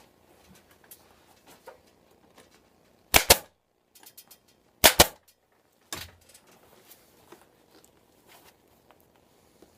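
Staple gun firing twice, about a second and a half apart, each shot a sharp double clack, fastening a stretched vinyl motorcycle seat cover. A softer knock follows, with faint handling rustles between.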